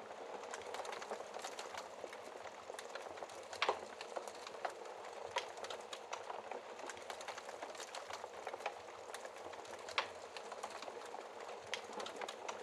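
Wood fire crackling in a fireplace: a steady bed of fine crackle with many small snaps, and two louder pops, one a little before 4 seconds in and one about 10 seconds in.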